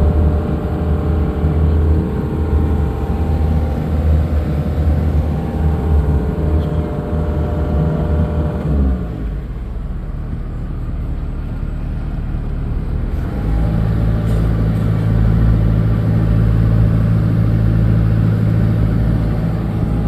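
A steady low motor hum that falls in pitch about nine seconds in, then settles into a different steady hum from about thirteen seconds.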